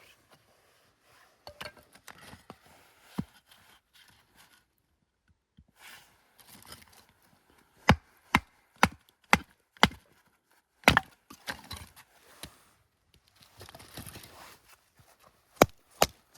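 Wood being chopped: irregular sharp blows of a blade into wood, including a run of five about half a second apart, with softer scraping between.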